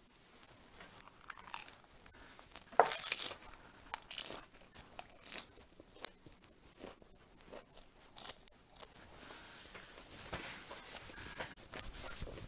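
Close-up eating sounds: crisp crunching bites of a lettuce leaf dipped in cheese sauce, the loudest crunch about three seconds in, followed by wet chewing and lip smacks.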